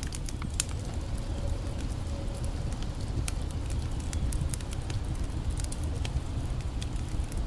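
Campfire crackling, with frequent sharp, irregular pops and snaps, over the steady low rush of a creek.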